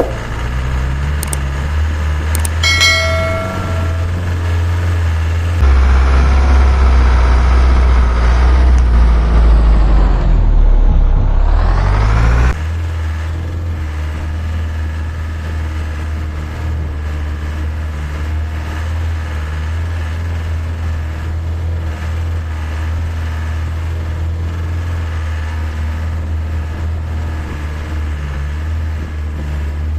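Isuzu Elf truck's diesel engine working under load, a steady low rumble. From about six seconds it grows louder, its pitch sinking and then climbing sharply before it drops back to a steady run at about twelve seconds; a brief pitched tone sounds near three seconds.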